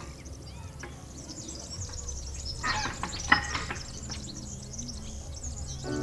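Birds chirping and twittering, many small high calls, with a short noisy burst and a sharp click about three seconds in.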